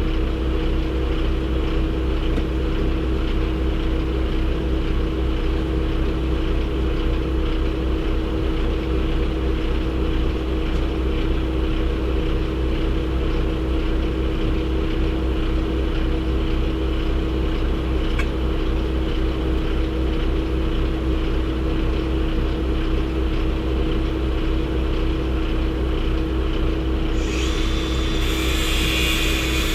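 Steady engine and road drone of a semi truck heard from inside the cab while driving, with a steady hum under it; a hiss rises in the high range near the end.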